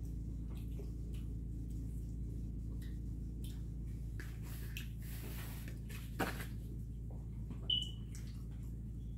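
Soft chewing and wet mouth sounds of people eating pizza, with scattered small clicks, over a steady low hum.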